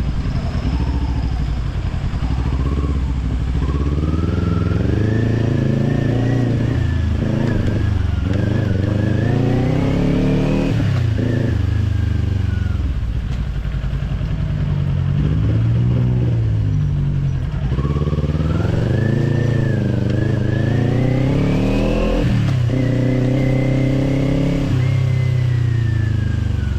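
Kawasaki Z400 parallel-twin with an Orion Katya slip-on exhaust accelerating through the gears, its pitch rising and dropping back at each shift, then easing off and slowing before pulling up through the gears again. Wind noise runs under it throughout.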